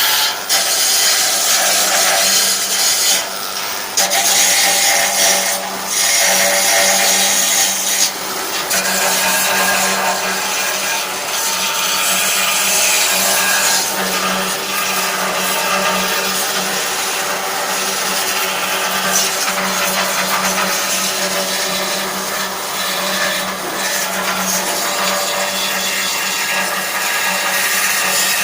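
Angle grinder running under load against metal, a steady motor whine over a harsh grinding hiss. It eases off briefly three times in the first nine seconds, then grinds on continuously.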